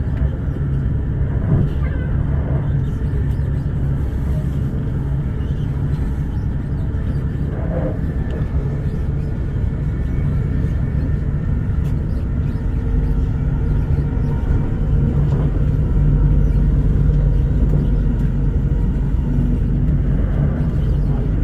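Interior running noise of an Elizabeth line Class 345 electric train travelling at speed: a steady low rumble from the wheels and running gear with a low hum underneath, growing slightly louder near the end.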